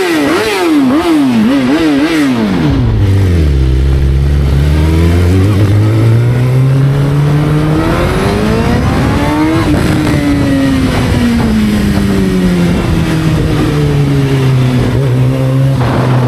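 Motorcycle engine revving in quick blips for the first couple of seconds, then dropping back and climbing in one long steady rise of revs to a peak about ten seconds in before easing down to a steady low run.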